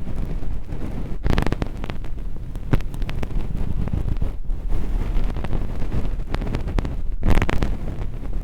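Earpick scraping and rustling inside a silicone ear model close to the microphone: a muffled rumble full of fine scratches, peeling away thin-skin fake earwax. It breaks off briefly three times.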